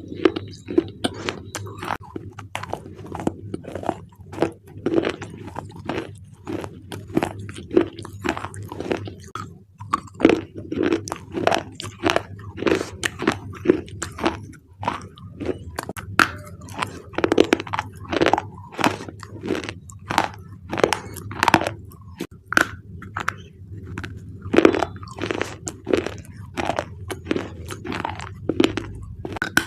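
Thick black slate bars crunching and cracking into pieces in a dense, irregular run of sharp crunches, about two or three a second, over a steady low hum.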